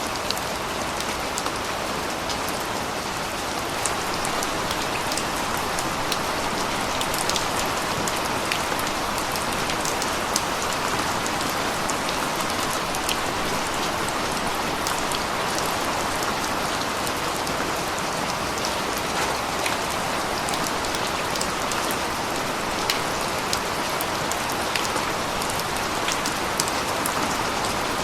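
Steady rain falling, a dense even patter with many separate drops ticking on a hard surface.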